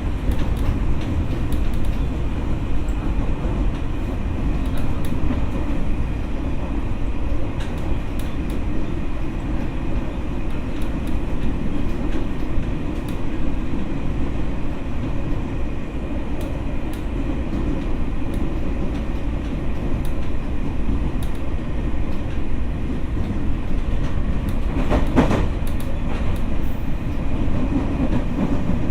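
Ex-Tokyo Metro 6000 series electric train running on the line, a steady rumble of wheels on rail with a faint steady high tone. A single sharp knock comes near the end.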